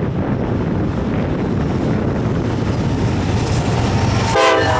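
Diesel-hauled freight train passing close by, a loud steady rumble of engines and wheels on rail. Near the end comes one short blast of the locomotive's air horn.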